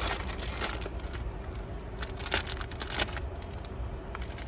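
Steady low rumble of a car engine running nearby, with scattered crackling and clicking from food packaging being handled, sharpest about two and a half and three seconds in.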